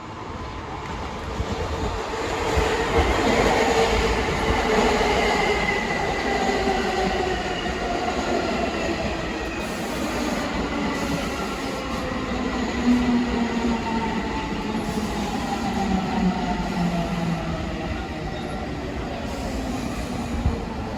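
New York City subway train running into the station and braking. Its motor and gear whine falls steadily in pitch over the rumble of wheels on rail, loudest a few seconds in.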